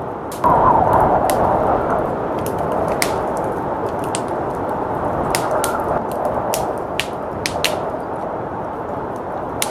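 Wood fire crackling with frequent sharp pops over the steady rush of blizzard wind. The wind swells in a gust about half a second in.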